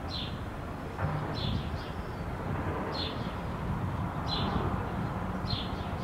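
A bird calling with short high chirps about every second and a half, over a steady low outdoor rumble of wind and road traffic that grows a little louder about a second in.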